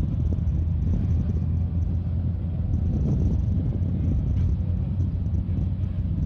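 Steady low rumble of a landing airliner, with no change in level.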